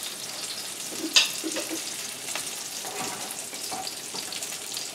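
Sesame-crusted tuna steaks sizzling steadily as they sear in a frying pan on a gas burner. A spoon clinks sharply against the saucepan once about a second in, with a few lighter taps after.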